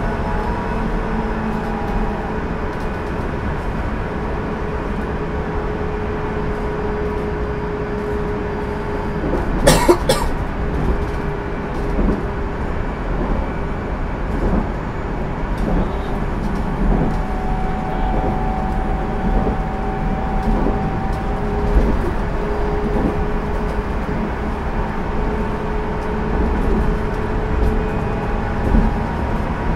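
JR Central 373 series electric multiple unit motor car (KuMoHa 373) running at steady speed, heard from inside the car: a low rumble of wheels on rail with traction motor whine held at a steady pitch. A sharp knock about ten seconds in, and a few lighter knocks later on.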